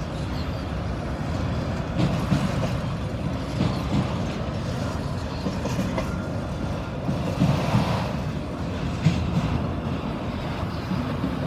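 Long freight train of auto rack cars rolling past: a steady rumble of wheels on rail with scattered clanks and knocks.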